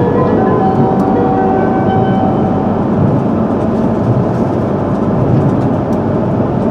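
E3-series Shinkansen train running at speed, heard from inside the carriage: a steady rolling rumble of wheels on rail. A faint whine of a few steady tones sits over it for the first couple of seconds, then fades.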